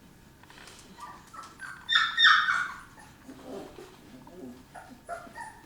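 A dog whimpering and yelping in a run of short, high-pitched cries, loudest about two seconds in, with softer whines again near the end.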